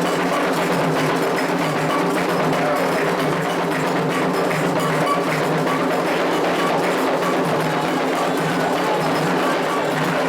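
Candomblé ritual drumming: atabaque hand drums with a struck bell or wood-like percussion, playing a fast, steady rhythm.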